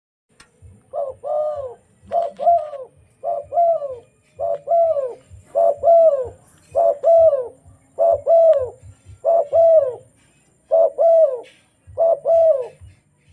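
Spotted dove cooing: about ten repeated phrases, one every second or so, each a short coo followed by a longer falling one.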